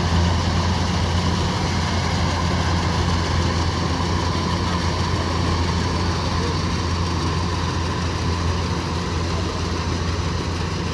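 Kubota DC-105X combine harvester's diesel engine running steadily with a low, even drone, easing off a little near the end.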